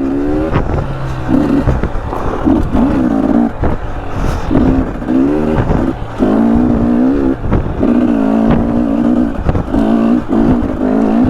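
2020 KTM 300 XC two-stroke dirt bike engine rising in pitch in repeated short bursts of throttle, lugging along at low revs between them. Knocks and clatter from the bike over the rough trail come between the bursts.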